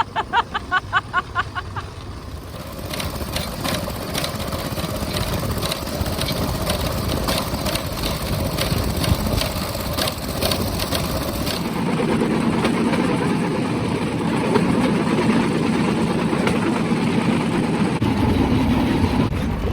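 The bamboo train's small engine running as the platform gets under way along the track, with a rapid, irregular clatter of the wheels and platform over the rails; the engine becomes louder about twelve seconds in. A short pulsing tone is heard in the first two seconds.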